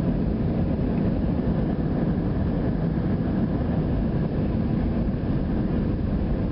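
Steady low rumble inside the passenger cabin of an Airbus A320 jet airliner during landing.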